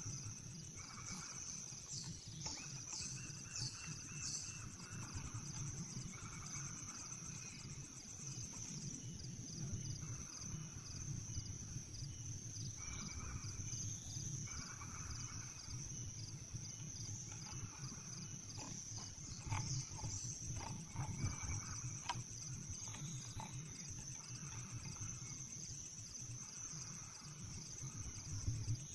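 Kingfisher chicks in their nest burrow giving raspy begging calls, repeating about every one and a half to two seconds, over a steady high insect hum; a few sharp clicks come about two-thirds of the way through.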